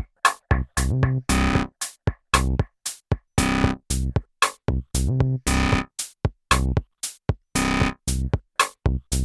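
Ambient techno played live: synth chords and bass chopped into hard-gated stabs that cut on and off to silence, about two to three a second in a stuttering, uneven rhythm.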